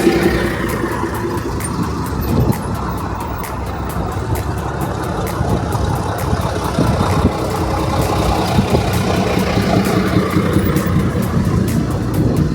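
Diesel engine of a Routemaster double-decker bus running steadily.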